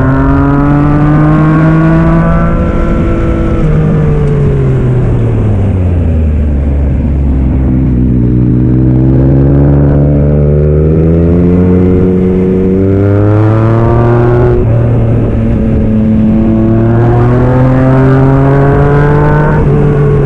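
Yamaha MT-09 SP's three-cylinder engine through a Black Widow aftermarket exhaust, pulling and backing off on the throttle. The pitch sinks low through the middle as the bike slows, then climbs again with several stepwise gear changes in the second half.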